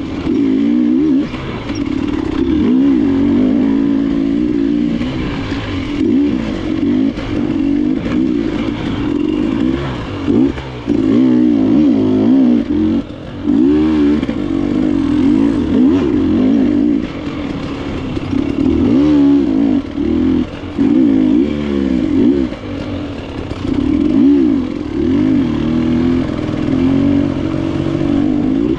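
Enduro dirt bike engine revving up and easing off over and over as the throttle is worked, with short drops where the throttle closes.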